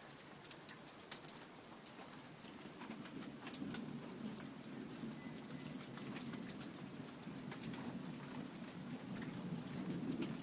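Steady rain falling, with many individual drops ticking sharply on a nearby surface. A low rumble swells up under the rain from a couple of seconds in.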